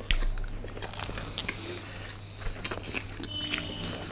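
Close-miked chewing and biting of chicken pepperoni stuffed garlic bread: a string of small wet mouth clicks and soft crunches. A low thump comes right at the start.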